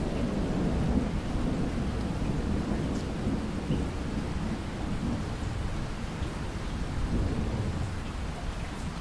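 Thunderstorm: a long low rumble of rolling thunder over steady rain, strongest in the first few seconds and easing slightly toward the end, with a few faint drop ticks.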